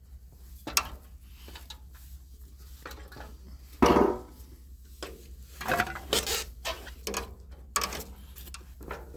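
Scattered knocks and clatter of metal parts being handled, with one loud knock about four seconds in, over a steady low hum.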